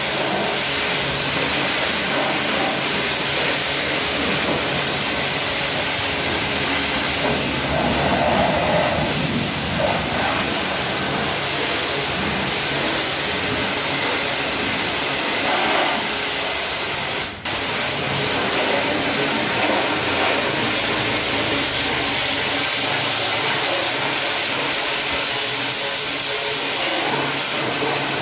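Steady hiss of a car-wash high-pressure water spray, cutting out for an instant about seventeen seconds in.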